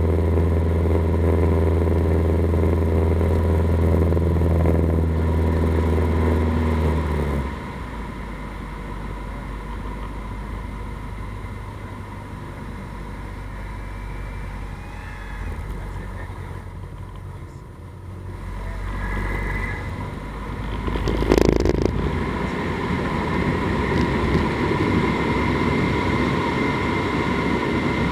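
Cessna 150's four-cylinder Continental O-200 engine running steadily at power, then cut back sharply to idle about seven seconds in, the power reduction for a spin entry. Afterwards a rushing sound with a low engine note builds up from about eighteen seconds, with one sharp thump a little after twenty seconds.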